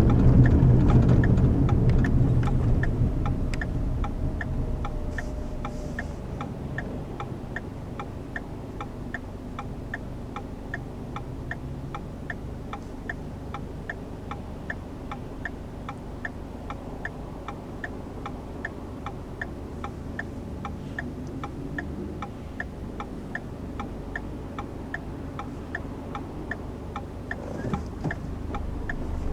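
A car's turn-signal indicator ticking steadily over low engine and road rumble. The rumble fades over the first few seconds as the car slows, then picks up again near the end.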